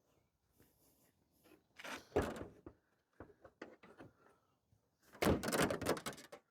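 Car door being handled: a single thunk about two seconds in, a few light knocks, then a cluster of clicks and rattles near the end.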